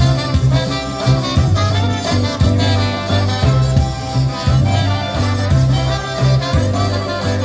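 Live polka band playing an instrumental passage between sung verses of a Polish song, with wind instruments over a steady bass line.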